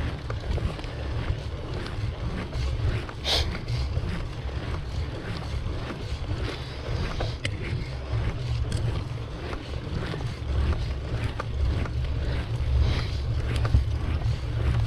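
Wind buffeting the microphone of a camera on a moving bicycle: a steady low rumble with hiss, and scattered small clicks and rattles from the ride.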